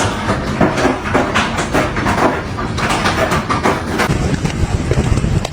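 Hailstones pelting down, a dense, rapid clatter of hard impacts that thins out about four seconds in, leaving a lower rumble.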